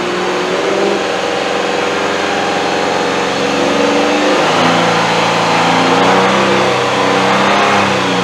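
Nissan Frontier pickup engine being revved, its pitch stepping up about halfway through and then holding steady at the higher speed. The mechanic has diagnosed a clogged catalytic converter that is choking the exhaust.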